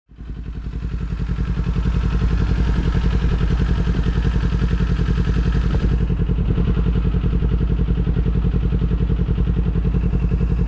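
Kawasaki motorcycle engine with an aftermarket Leo Vince exhaust idling steadily, with an even, rapid exhaust pulse.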